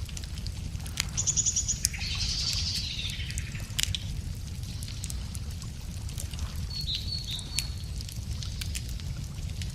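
Wood campfire crackling with scattered sharp pops over a steady low rumble, while birds sing: a quick high trill about a second in, a falling call just after it, and a short high call about seven seconds in.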